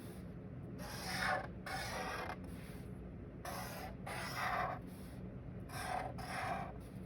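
A drawing tool scratching across paper in short strokes of about half a second, mostly in pairs with brief pauses between, over a faint steady low hum.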